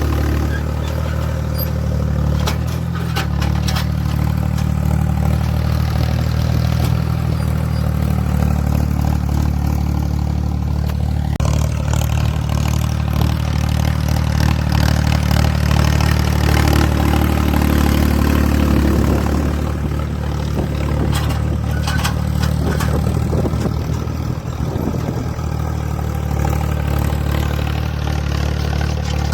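Ford 3600 tractor engine running at a steady speed, with some clatter in the first half.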